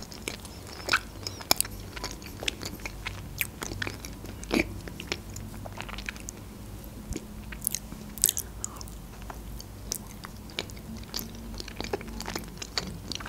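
A person chewing soft mochi close to the microphone: many short clicks and mouth smacks at irregular intervals, over a low steady hum.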